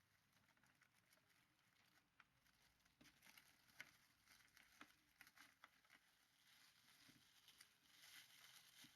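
Near silence: faint room hiss, with a scattering of small faint clicks and rustles from about three seconds in.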